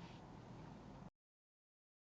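Near silence: faint room hiss that cuts off to dead digital silence about a second in.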